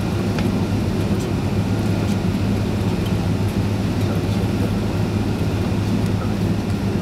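Cabin noise inside a Boeing 767-336 on the ground before takeoff, its Rolls-Royce RB211 engines running: a steady drone with a strong low hum.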